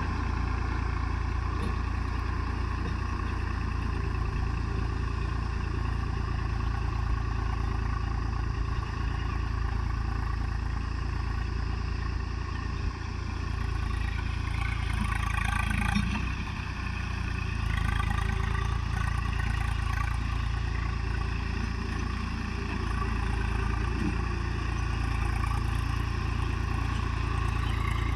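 Tractor engine running steadily, with a brief dip in level and a shift about halfway through.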